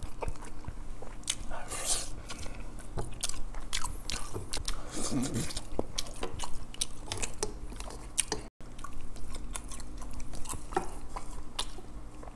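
A man chewing a mouthful of food, with many irregular short mouth clicks and smacks. The sound cuts out for a moment about eight and a half seconds in.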